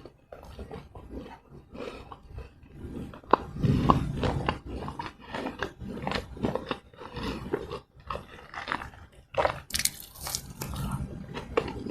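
Close-miked eating: chewing and mouth sounds, with irregular short clicks and smacks over soft low thuds.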